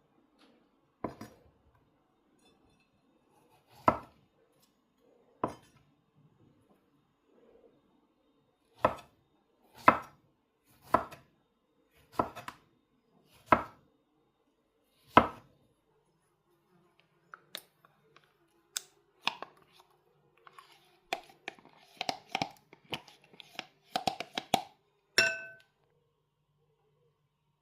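Knife chopping on a cutting board in single strokes about a second or more apart, then lighter clatter and clinks of kitchen utensils, with one ringing clink near the end.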